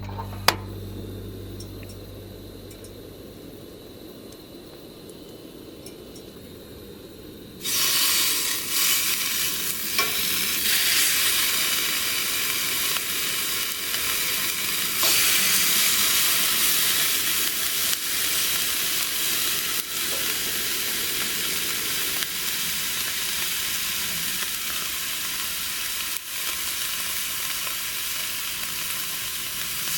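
A single sharp click about half a second in, then a quieter stretch, until food hits a hot pan about a third of the way in and sizzles loudly, frying steadily on.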